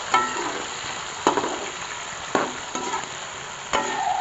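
Sliced onions sizzling in hot oil in a metal karahi, being fried toward golden brown. A steady frying hiss, with a perforated metal spoon knocking and scraping against the pan about once a second as it stirs, some knocks ringing briefly.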